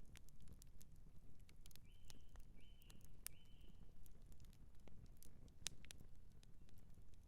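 Campfire crackling: scattered sharp pops and snaps over a low, steady rumble. About two seconds in, three short high chirps come one after another.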